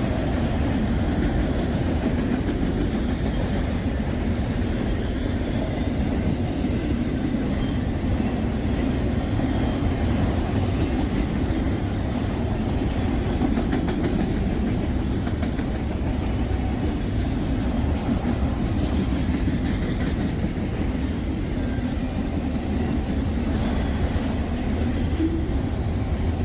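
Freight train cars rolling past: steady wheel-on-rail noise, with some clickety-clack.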